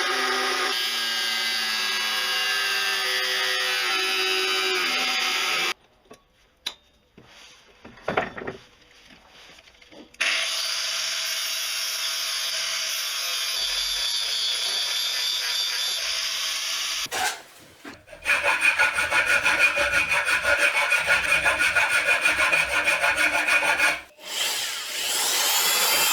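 Power tools and hand tools working metal in several short clips with abrupt cuts: a steady grinding noise with shifting tones, a few seconds of quiet with scattered knocks, then a fast, evenly pulsing scraping.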